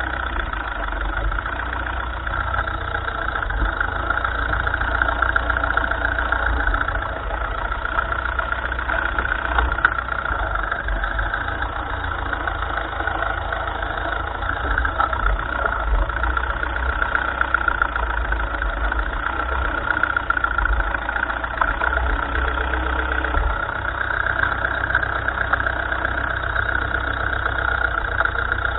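1955 Ferguson tractor engine running steadily at a low, even speed.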